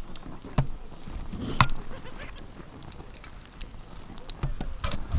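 Wood campfire crackling, with a few sharp pops at uneven intervals over a low rumble; the loudest pop comes about one and a half seconds in.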